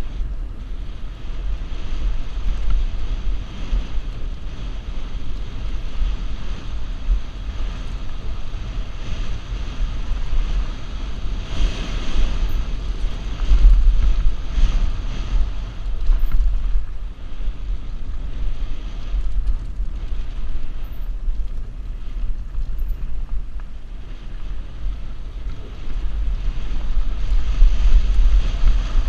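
Wind buffeting a helmet-mounted GoPro's microphone during a fast downhill mountain-bike run, a deep rumble under a steady rush of noise, with the tyres and bike rattling over the trail. It swells louder about halfway through and again near the end as speed picks up.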